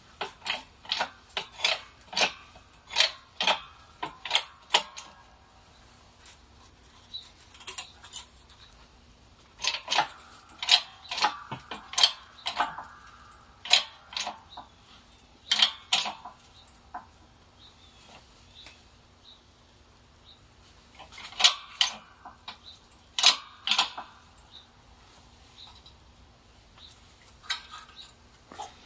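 Metal tools and steel parts clinking and clicking in irregular runs of sharp strikes, with a few pauses, as a bolt and pipe are worked to press a poly bushing into a track-bar joint. A faint steady hum runs underneath.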